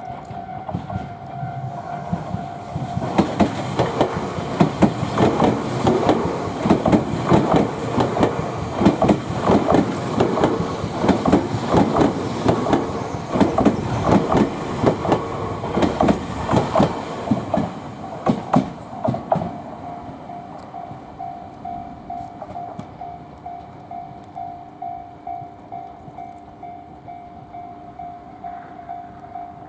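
A Tobu Urban Park Line (Noda Line) train passes, its wheels clacking in a rapid, regular rhythm over the rail joints for about sixteen seconds before fading. Throughout, a level-crossing warning bell rings with a steady repeated ding, and it goes on ringing after the train has passed.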